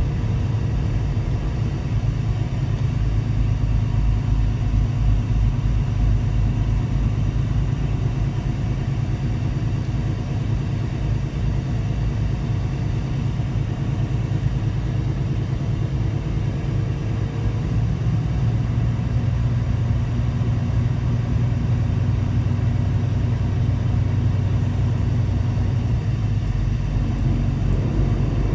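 Semi truck's diesel engine running steadily on the move: a deep, even drone.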